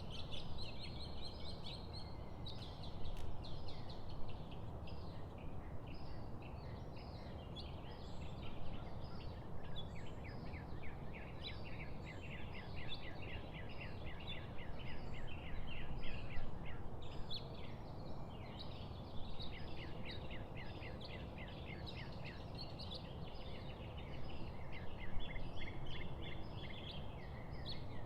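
A chorus of small songbirds chirping and trilling rapidly and continuously, over a steady low rushing background.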